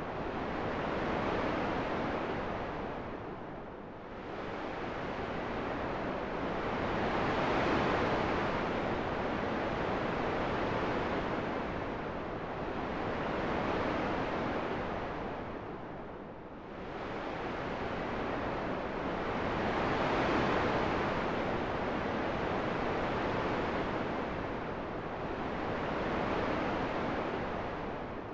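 Wind: an even rushing noise that swells and fades in slow gusts every several seconds, dipping lowest about four seconds in and again around the middle.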